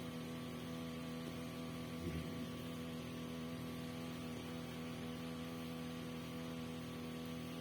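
A steady low hum of several even tones over a faint hiss, with one brief low bump about two seconds in.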